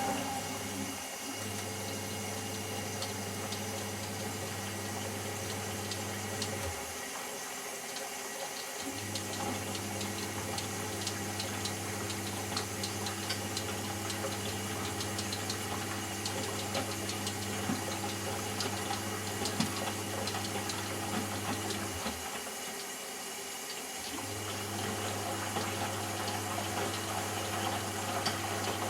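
Eudora Sparmeister 702 washing machine in a rinse: a steady motor hum as the drum turns, with water sloshing. The hum stops twice, each time for about two seconds, before starting again.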